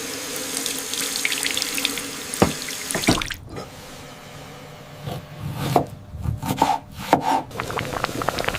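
Running water with splashes and drips: a steady pour for about three seconds, a brief lull, then irregular splashing.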